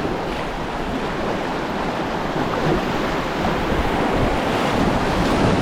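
Whitewater rapids rushing, a steady loud water noise that grows a little louder near the end.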